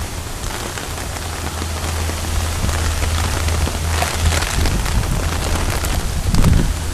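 Tropical-storm rain falling steadily as an even hiss, over a constant low rumble, with a louder low surge near the end.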